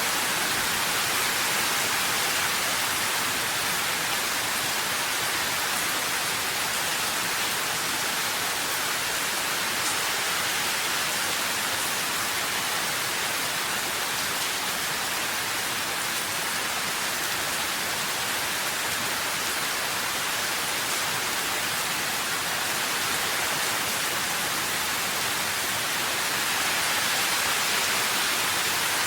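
Steady rain falling, an even hiss with no distinct drops, thunder or changes.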